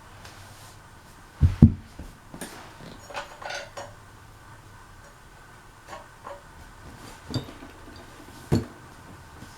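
Harbor Breeze Aristocrat ceiling fan running on low speed with a faint steady hum. Two loud thumps come about a second and a half in, then scattered clinks and knocks.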